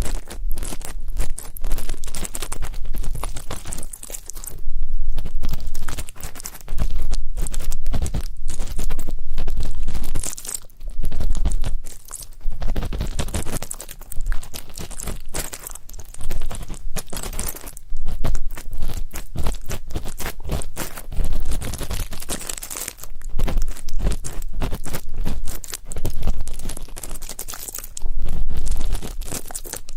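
Close-up ASMR ear cleaning: an earpick scraping and rubbing against a microphone's ear, giving loud scratchy, crackling strokes in irregular bursts of a second or two, with muffled low thumps.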